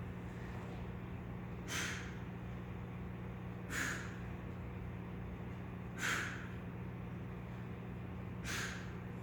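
A man's heavy, forceful breaths from exertion during weighted pull-ups, four short puffs about two seconds apart, over a steady low hum.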